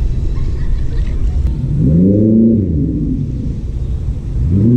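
Boat outboard motor revving up and easing back down, then revving up again near the end and holding, over a steady low rumble: a boat stuck on a submerged tree is being powered to push over it.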